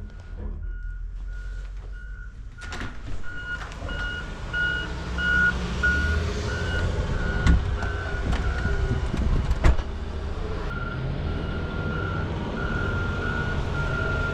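A vehicle's electronic warning chime beeping repeatedly over the low rumble of the running car, with a short pause in the beeping two-thirds of the way through. A few sharp knocks sound along the way.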